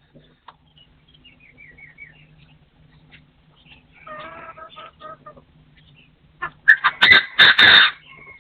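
Partridge calling: soft chirps at first, a run of clucking notes about four seconds in, then a loud, harsh burst of calls near the end, the loudest part. A steady low hum runs underneath.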